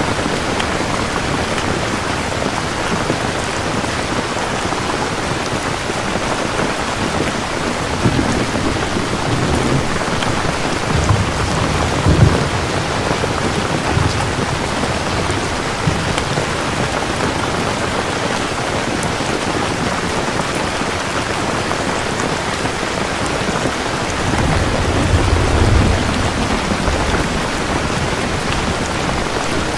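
Steady heavy rain falling, with thunder rumbling twice: a rolling rumble with a sharper crack about twelve seconds in, and a longer low rumble near the end.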